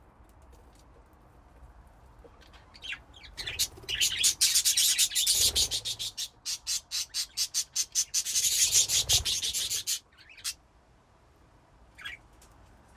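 A flock of budgies chirping and chattering in a rapid, high-pitched run from about three seconds in until about ten seconds in, followed by a couple of single chirps.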